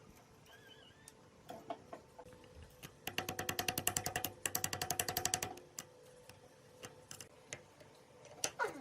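Rapid mechanical clicking, about a dozen clicks a second, starting about three seconds in and lasting about two and a half seconds with a brief break in the middle, between scattered single light taps.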